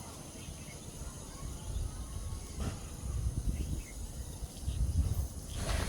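Outdoor ambience: an uneven low rumble of wind on the microphone over a steady high-pitched insect drone, with two soft knocks, the second near the end. No clear barbet call stands out.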